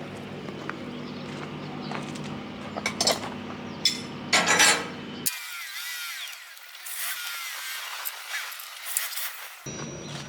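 Metal knocks, clinks and scraping from hand work fitting engine mounts, over a steady low hum. About five seconds in the sound cuts to a thinner stretch of squeaky rubbing, like nuts being run along threaded studs.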